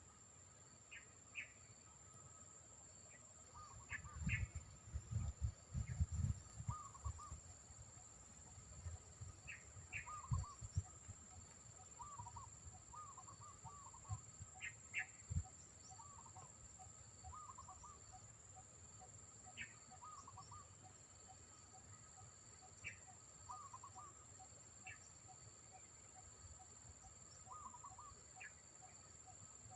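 Birds calling repeatedly, with short paired high notes and lower curling notes every few seconds, over a steady high insect drone. Wind buffets the microphone in gusts during the first part.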